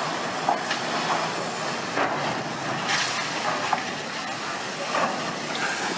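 A steady rushing noise with several short knocks scattered through it.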